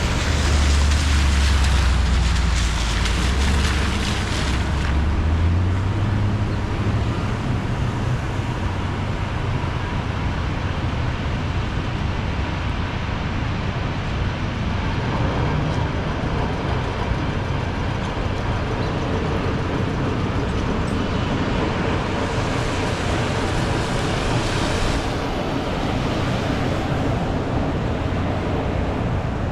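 City street traffic on wet roads: vehicles passing with tyre hiss, and a heavy engine's low drone in the first few seconds.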